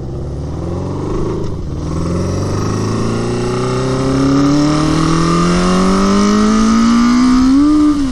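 1981 Honda CB750 inline-four motorcycle engine accelerating hard, its pitch and loudness climbing steadily for several seconds, with a brief dip about a second and a half in and a sharp drop at the very end. The engine pulls strongly, running far better than expected after sitting all winter.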